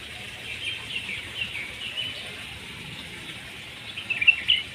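Small birds chirping: a string of short high chirps, busier near the end, over a steady outdoor background hum.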